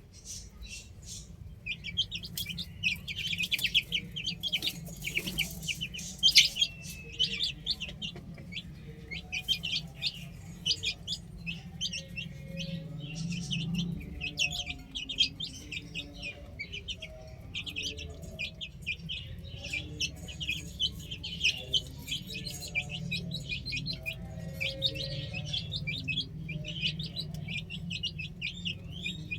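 Baby chicks chirping continuously, many short high peeps a second overlapping one another, over a steady low rumble.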